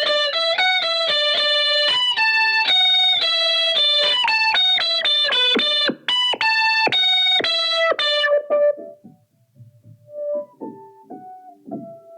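Guitar played through a Boss SY-1 synthesizer pedal on a synth lead patch: a quick melodic line of bright, sustained synth notes that stops about eight seconds in, followed by a few quieter, scattered notes.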